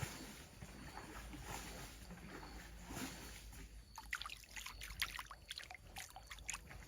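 Water sloshing and splashing, with a quick run of sharp splashes or clicks starting about four seconds in.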